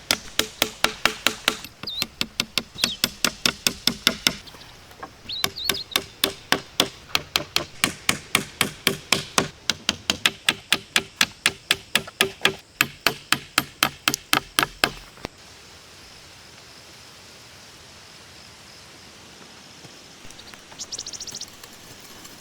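Rapid, regular striking: knocks or chopping blows at about four a second, pausing briefly about four seconds in and stopping about fifteen seconds in.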